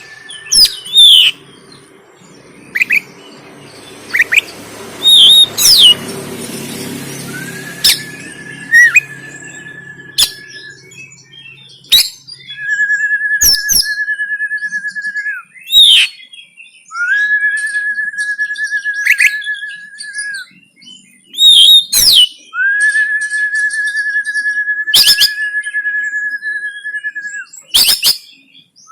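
Oriental magpie-robin (kacer) singing loudly in sharp, sweeping whistled calls. From about a quarter of the way in, these alternate with long held trilling notes of two to four seconds each, about five of them. A faint low rumble sits under the first half.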